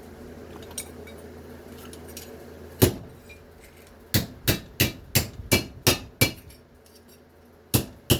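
Hammer blows flattening scrap sheet aluminum: one strike about three seconds in, then a quick run of about seven at roughly three a second, and another near the end.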